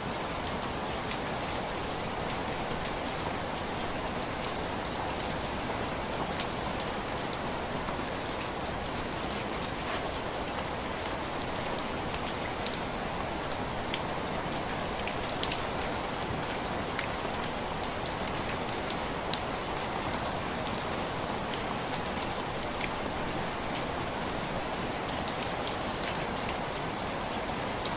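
Steady rain with many individual drops tapping on window glass.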